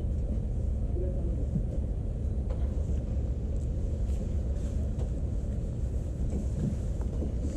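A passenger carriage of the Norokko sightseeing train running along the track: a steady low rumble from the wheels on the rails, with a few faint clicks.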